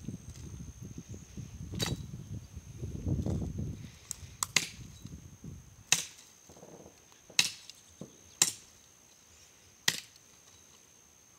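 Wood being broken up for a bonfire: a series of about eight sharp cracks at irregular intervals, with rumbling handling noise in the first few seconds.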